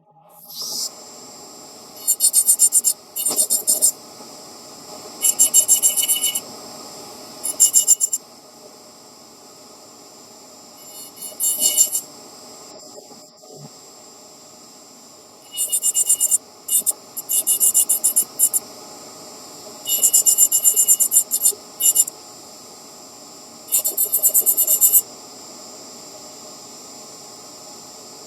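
Electric rotary carving tool running with a steady hum, breaking into about ten short bursts of high, finely ticking grinding as the bit is pressed against the nut to shape and polish it.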